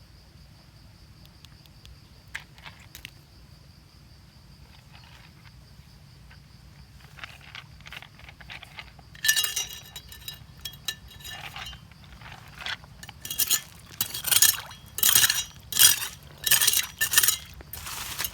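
Hard stones or crystals clinking and scraping together in a run of sharp strokes that starts about halfway through and comes thicker toward the end, over a faint steady high-pitched tone.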